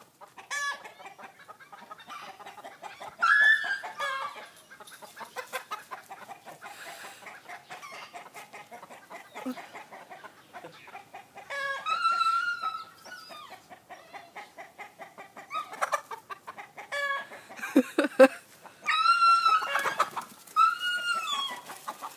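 Chickens clucking in a steady chatter of short calls, with a few longer arching calls standing out, around twelve seconds in and three in a row near the end.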